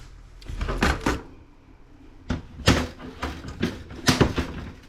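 Plastic laptop parts being handled and pried apart during disassembly: a series of irregular sharp clicks and knocks.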